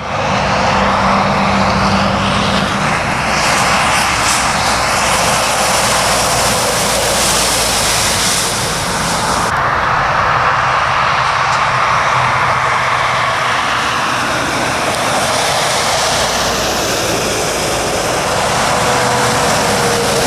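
Trucks passing on a rain-soaked road: a steady hiss of tyres throwing up spray under a low diesel engine drone. The sound turns duller suddenly about halfway through.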